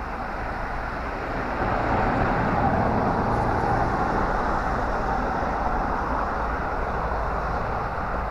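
A road vehicle passing, its engine and tyre noise swelling about two seconds in and slowly fading away.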